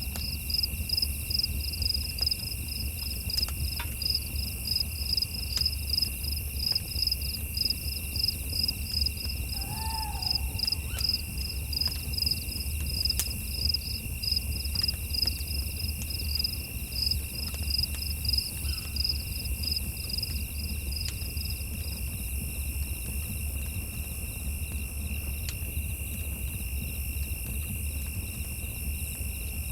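Night insects, crickets, calling: a high pulsed chirp, two or three pulses a second, runs over a steady high trill and stops about three-quarters of the way through. A few faint clicks and one short call come about a third of the way in, with a low rumble underneath.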